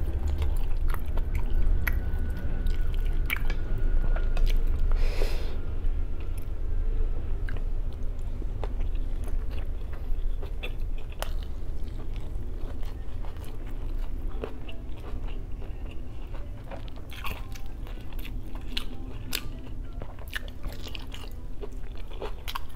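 Close-miked chewing of tender boiled pork hock, with many small sharp mouth clicks scattered throughout over a low steady hum.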